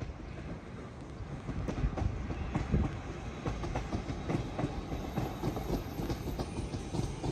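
A train running past, its wheels clattering over the track in a quick, uneven run of knocks over a steady rumble.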